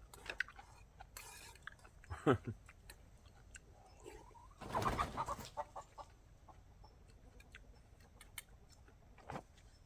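Chickens giving a few startled alarm calls: a short sharp squawk about two seconds in, a louder, noisier outburst around the middle, and a brief call near the end.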